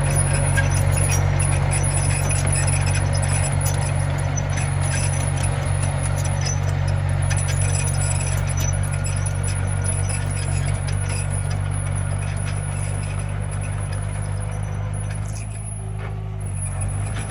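Komatsu mini bulldozer's diesel engine running steadily under work, with light metallic clinking over it. It goes quieter for a moment near the end.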